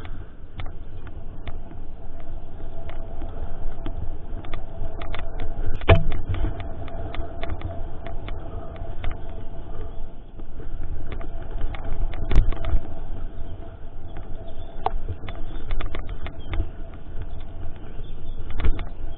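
Mountain bike riding over rough trail as heard from a camera mounted on it: a continuous low rumble with constant irregular rattling and knocking, two harder knocks about six and twelve seconds in, and a faint steady hum underneath.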